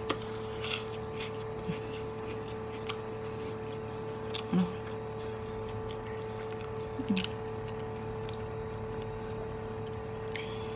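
Close-up eating sounds: chewing noodles and rice with scattered wet mouth clicks and lip smacks, and two short low 'mm' sounds from the eater. A steady electrical hum runs underneath.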